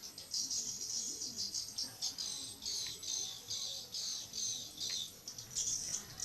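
Swiftlets twittering: a dense chatter of high, rapid chirps that comes in repeated trains and never pauses.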